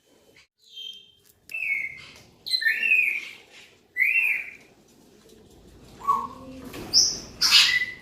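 Parrots calling: a series of about seven short, separate calls, several of them rising and falling in pitch, with a harsher, noisier call near the end.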